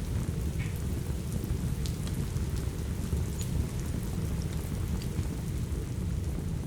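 Steady rain with a deep, constant low rumble, over a wood fire crackling with scattered small pops.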